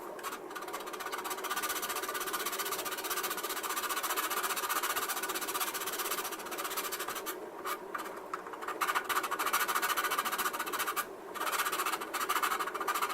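Hand sanding of a plastic model-kit part: fast, continuous back-and-forth scraping strokes on the styrene, pausing briefly twice.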